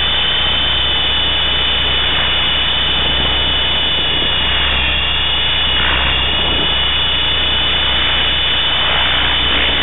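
Align T-Rex 500 electric RC helicopter in flight: a steady high whine from its brushless motor and gears over the rush of the spinning rotor blades. The whine sags slightly in pitch about halfway through, then recovers.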